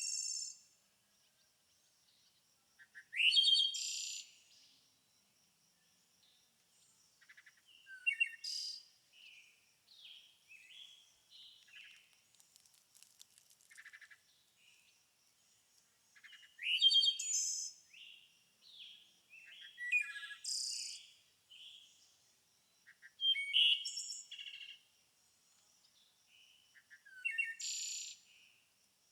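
Songbirds singing: short, bright song phrases every few seconds, with quieter chirps in between and a faint steady high tone underneath.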